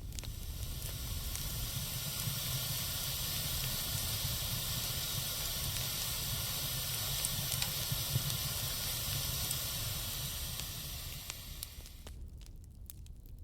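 Wood fire hissing steadily over a low rumble, with a few faint crackles. The hiss fades away about twelve seconds in.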